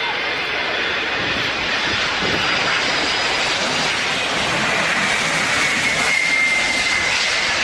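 Jet engines of an Antonov An-225 on landing, its six turbofans giving a steady, loud rush of engine noise. A high turbine whine slides slightly lower partway through.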